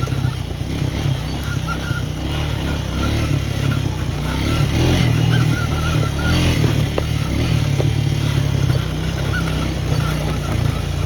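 A four-wheeler (ATV) engine running under load as it is ridden along a dirt trail, its level rising and falling a little with the throttle.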